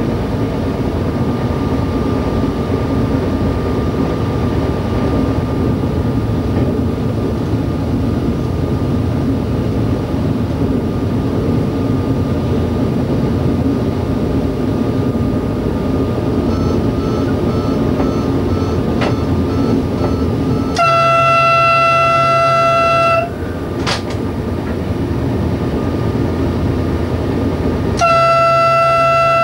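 Y2 diesel multiple unit running along the track, heard from the driver's cab as a steady engine and wheel noise. About 21 seconds in, the train horn sounds one long blast of a couple of seconds, and near the end it sounds again in another long blast.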